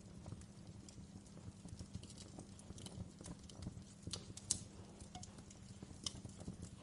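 Wood fire crackling in a fireplace: faint, irregular pops and snaps, with a sharper pop about four and a half seconds in and another about six seconds in.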